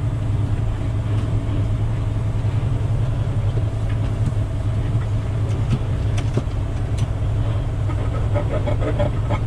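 Log truck's diesel engine running with a steady low drone while the truck rolls over a rough road, with scattered knocks and rattles from the truck jolting.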